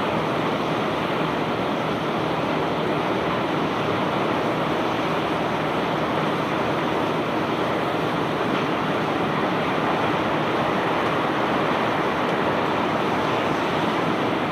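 Steady rushing noise of bulk cargo pouring off a self-unloading barge's discharge conveyor, even and unbroken without separate knocks.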